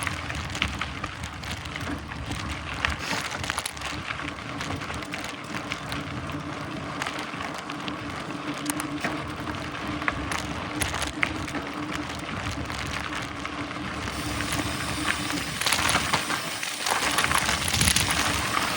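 Mountain bike riding along a dirt trail: tyres rolling with a steady hum, with scattered rattles and clicks from the bike. The rolling noise grows brighter and louder about fourteen seconds in.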